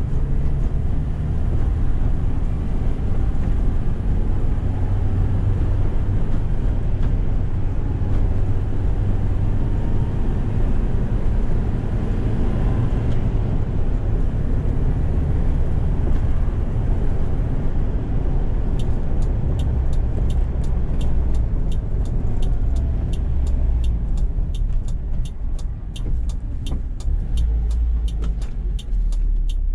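Toyota Hiace's 2Y 1.8-litre petrol engine and road noise while driving, a steady low rumble. About two-thirds of the way in a turn-signal relay starts ticking, about twice a second, and the rumble eases near the end as the truck slows.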